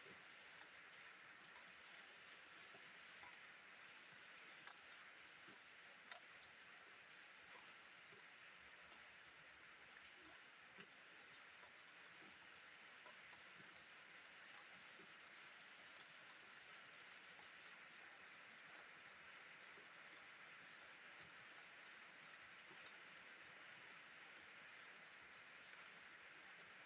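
Faint steady rain: an even hiss with scattered individual drops ticking.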